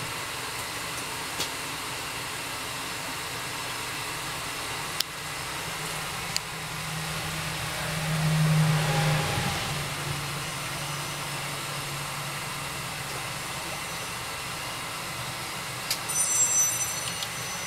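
A motor or engine running steadily with a low hum, swelling louder for a few seconds around the middle, with a few sharp clicks.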